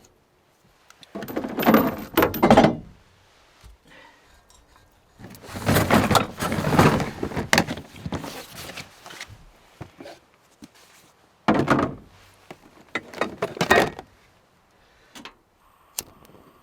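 A series of thunks and clattering, as if gear is being handled, in several bursts with quiet pauses between them, and a few sharp single clicks near the end.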